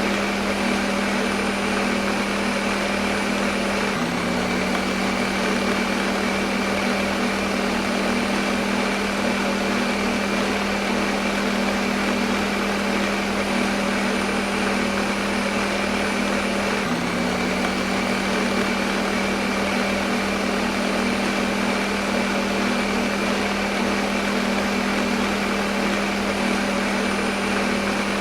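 Electric blender motor running steadily: a constant hum over a whirring hiss, with a slight step in pitch twice.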